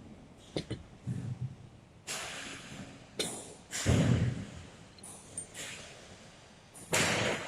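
Handling of end-of-arm-tool parts: light clicks and short rustling, scraping bursts as pieces are positioned and fixed, the loudest about four seconds in and another near the end.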